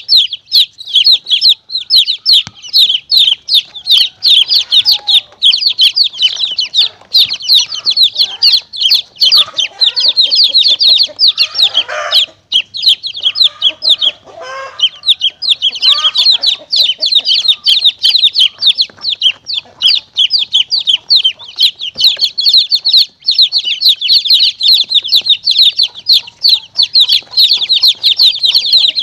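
Baby chicks peeping rapidly and continuously in high-pitched calls, with a couple of lower calls cutting in about halfway through. It is a recorded chick-distress lure for drawing monitor lizards and mongooses.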